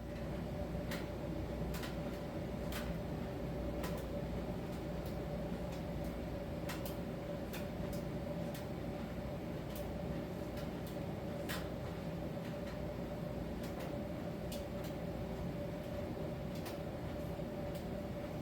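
Miele T1 heat-pump tumble dryer running in its drying phase: a steady hum with a held mid-pitched tone and a low rumble, with irregular light clicks throughout.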